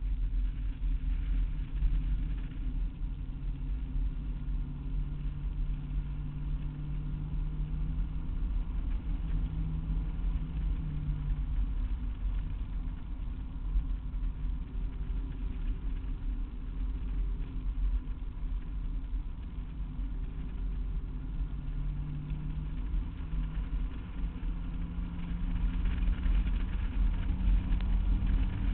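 Classic car's engine heard from inside the cabin while driving, with a steady low rumble from the road. The engine note shifts up and down with speed and rises and grows louder over the last few seconds as the car accelerates.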